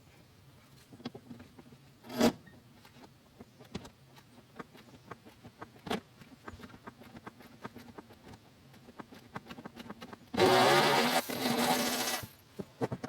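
Hand work on a truck cab's bench seat floor mounts: scattered clicks and knocks, with one sharp knock about two seconds in. Near the end a power tool runs for about two seconds with a loud buzz.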